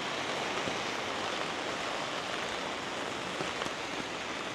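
Steady monsoon rain falling, heard from under an umbrella.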